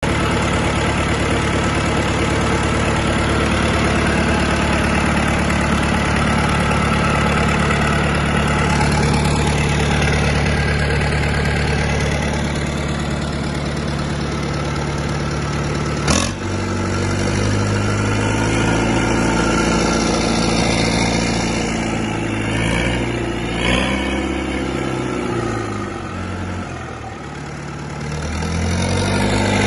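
Perkins 1004-4 four-cylinder diesel engine running at a steady speed, then, after a single sharp click about halfway through, its speed rising and falling several times as it is revved on test.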